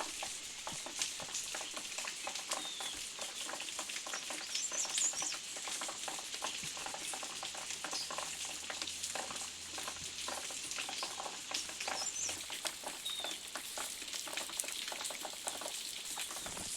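Monsoon rain falling in a steady patter of many small drops, with a few short high chirps now and then.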